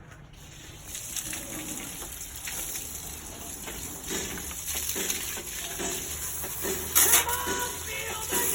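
Water spraying with a steady hiss that starts about a second in, with a louder gush just before seven seconds.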